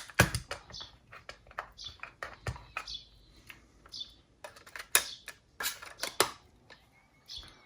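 Plastic clicks and clacks of a cassette being handled and loaded into an Aiwa HS-PL55 walkman, with several sharper snaps about five to six seconds in.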